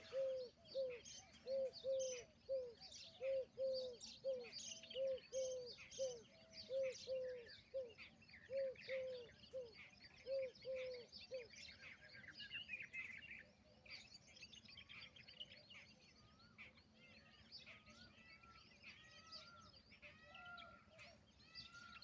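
A peahen giving a run of short, arched low calls, about two a second in groups of two or three, stopping about halfway through. Smaller birds chirp and twitter throughout.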